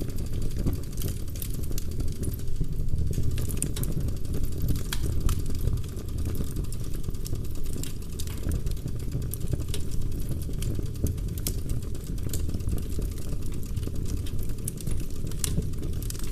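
Wood fire burning in a fireplace: a steady low roar of the flames with frequent sharp crackles and pops from the burning logs, scattered irregularly through.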